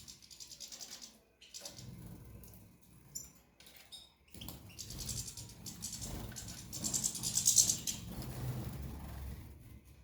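Caged birds fluttering their wings in repeated bursts, with a few short chirps; the fluttering is loudest about three-quarters of the way through.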